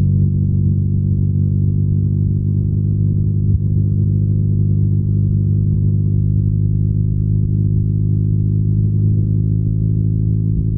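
BMW R nineT's air-cooled boxer twin running at a steady engine speed, its deep exhaust note holding one pitch while cruising.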